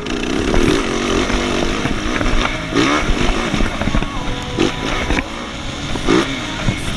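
Motocross bike engine running, with a few brief surges.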